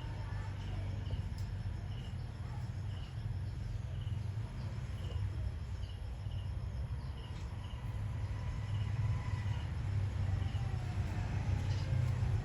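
A short high chirp repeating about once a second over a steady low hum.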